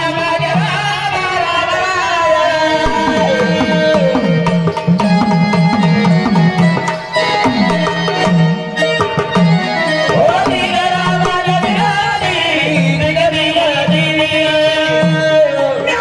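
Indian devotional folk music: a hand drum plays a steady repeated rhythm under a wavering melodic line, with singing in places.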